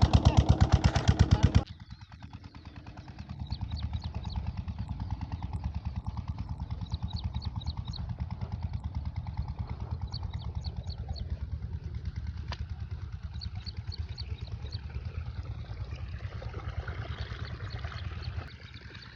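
An 8HP diesel pumpset engine running steadily with an even chugging beat. It is loud and close for about the first second and a half, then drops suddenly to a fainter, more distant running.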